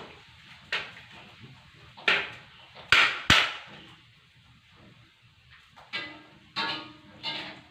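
Sharp knocks and clanks on metal, about seven strikes at uneven intervals. The last few are followed by a short ringing tone.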